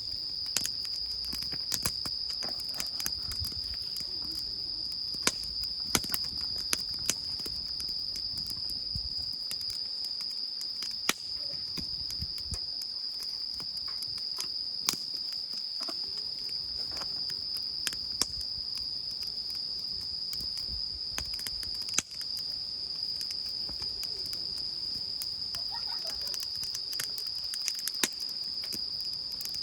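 Crickets chirping in one steady, continuous high trill, with scattered sharp clicks and pops over it.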